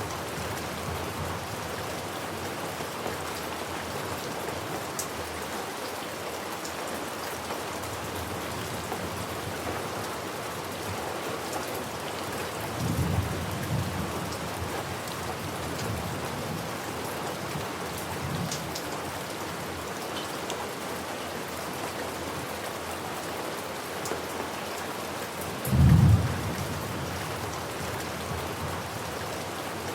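Steady rain falling, with thunder rumbling low a little before halfway and again, louder and shorter, near the end.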